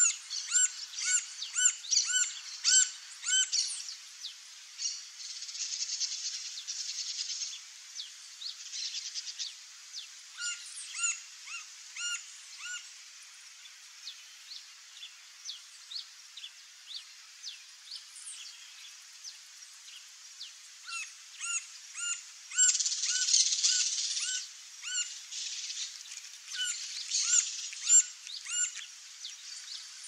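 Birds calling: runs of short, clipped notes repeated several times a second, stopping and starting through the whole stretch. A high, rasping hiss comes in about five seconds in and again a little past the twenty-second mark.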